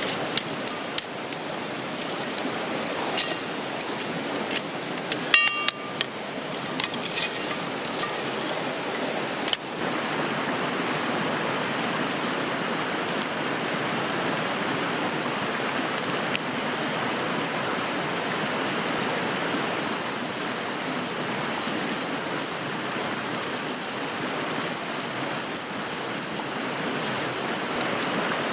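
Campfire cooking: crackling clicks and a ringing clink of metal about five seconds in, then a steady sizzling hiss of sukiyaki cooking in the pan.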